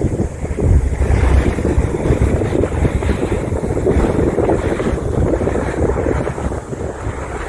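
Wind buffeting the microphone on a moving boat, over a steady low rumble of the boat's motor and water rushing past the hull.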